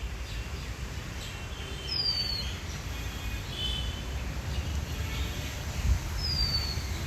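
Two short, clear bird whistles, each falling in pitch, about two seconds in and again near the end, with fainter chirps between, over a steady low rumble.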